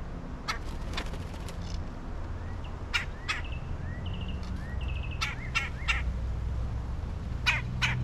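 Several birds calling: short sharp calls in pairs and small clusters, with softer chirps that rise and fall in between, over a steady low rumble.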